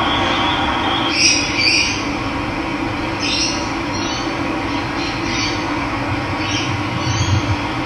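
Steady rush of running water, with a bird calling over it in short high notes about seven times.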